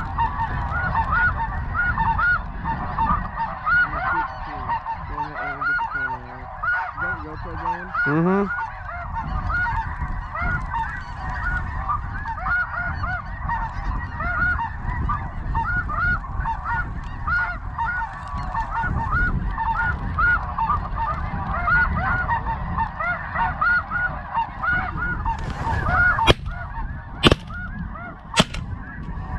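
Snow geese calling, a dense continuous chorus of high, repeated honks. Near the end come three sharp reports about a second apart, shotgun shots.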